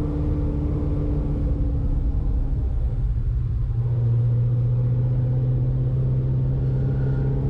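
Corvette ZR1's supercharged V8 running steadily under way, heard from inside the cabin. About three seconds in, the engine note drops and then settles into a steady, slightly louder lower tone.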